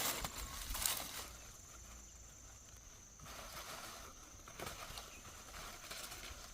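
Dry corn leaves and stalks rustling and crackling, loud in the first second, then faint scattered rustles and footsteps over a steady high thin tone.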